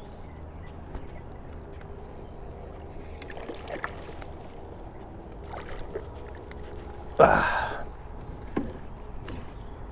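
Small aluminium john boat on a river, with a steady low rumble and a faint hum throughout. A single loud, brief knock or splash comes about seven seconds in, with a few lighter knocks around it.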